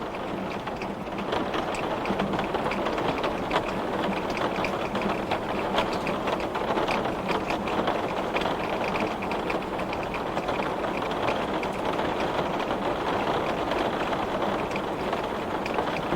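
Heavy rain beating steadily on a glass pane, a dense patter of many small drop ticks over a constant wash.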